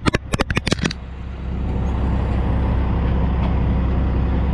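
Semi truck's diesel engine running with a steady low rumble that swells over about a second and then holds. A quick run of sharp clicks comes before it, in the first second.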